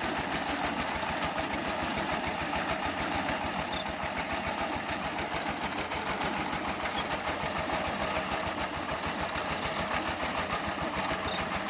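Diesel power tiller engine, rated 12 hp, running steadily with a fast, even pulsing beat.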